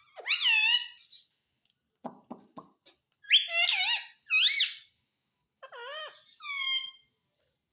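Pet parrot making a series of high, squeaky calls that glide up and down, with a short run of lower, stuttering sounds about two seconds in.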